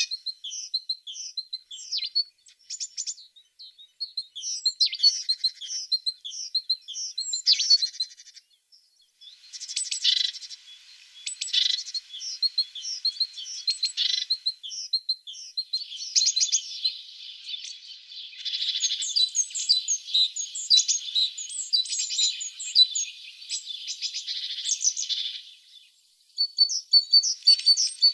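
Tits singing and calling: quick runs of short, high chirps, then a long, dense twittering stretch in the middle, and a brief pause before the chirps start again near the end.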